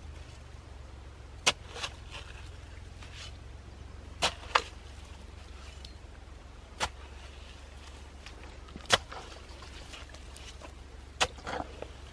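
Hand digging in a waterlogged ditch: a digging tool striking the soil, about eight sharp strikes roughly every two seconds, some in quick pairs, over a low steady rumble.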